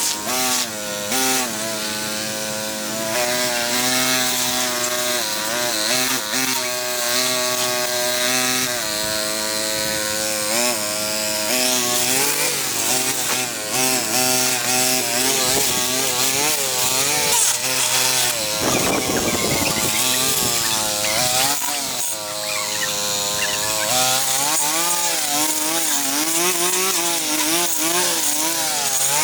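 Small petrol-engined cutting tool running under load, its pitch repeatedly rising and dipping as it cuts through wood and vegetation.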